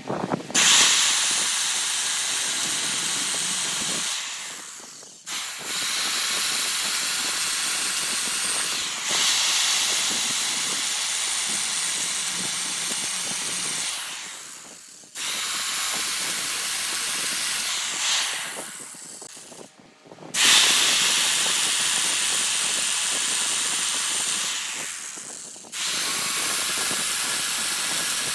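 Hissing of pressurised air or spray, in long bursts of several seconds that start suddenly and tail off, about five times over.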